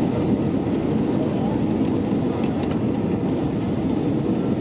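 Steady cabin noise of an Airbus A320-232 on approach: an even rush of airflow and its twin IAE V2500 engines, with no changes.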